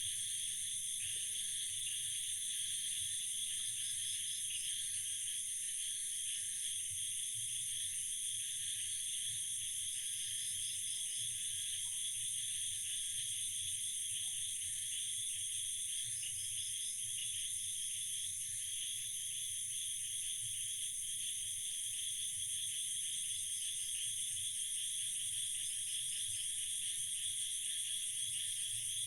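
Night chorus of insects after rain, a steady high-pitched trilling with fainter pulsed calls coming and going.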